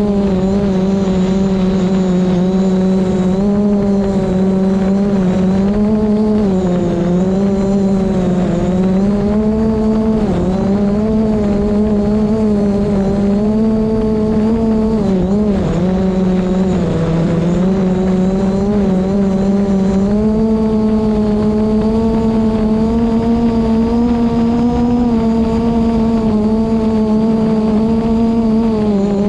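DJI Mavic Pro quadcopter's propellers whining loudly and steadily. The pitch wavers and dips now and then as the motors work against strong wind, over a low wind rumble on the microphone.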